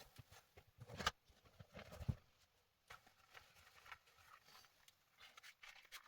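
Faint, irregular knocks and rustles, with two louder thuds about one and two seconds in.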